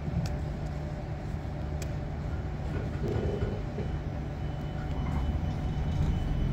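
Train running with a steady low rumble, a few faint clicks and a thin high tone joining about halfway. It grows slowly louder toward the end.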